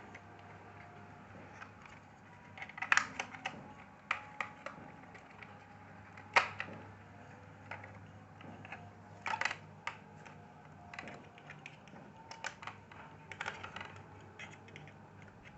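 Irregular plastic clicks, taps and knocks of laptop case parts being handled and pressed into place, with a few sharper knocks spread through, the loudest about six seconds in.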